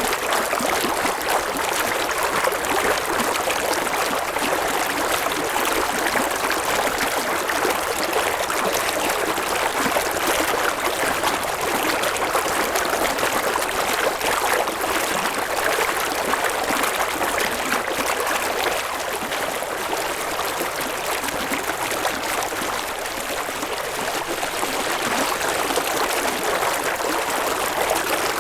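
River water flowing and babbling, a steady rushing sound with no breaks.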